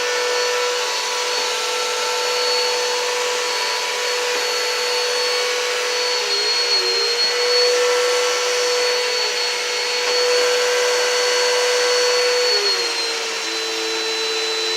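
Vacuum cleaner running steadily on carpet, a hum with a high whine over it. Its pitch dips briefly about halfway through and drops slightly near the end as the load on the motor changes.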